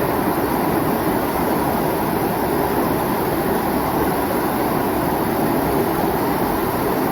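Water of a mountain valley stream rushing steadily, a continuous even rush with no pauses.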